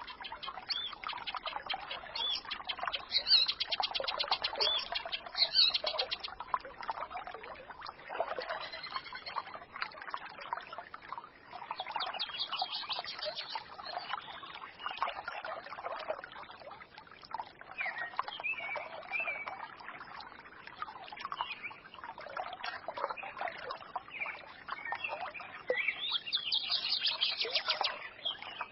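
A forest stream babbling steadily, with small songbirds chirping and twittering over it, including a few rapid trills.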